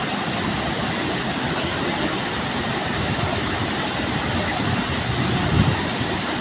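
Waterfall rushing in a steady, loud, even roar of water, with a brief low thump about five and a half seconds in.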